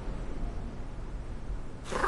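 Low, steady background hiss, then a cat starts to meow at the very end.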